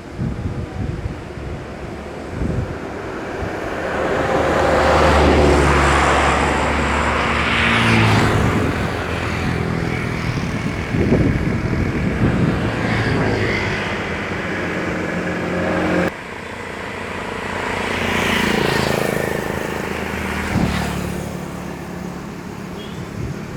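Motor vehicle engines passing by: the sound swells and fades once in the first half and again in the second half, with an abrupt break about two-thirds through.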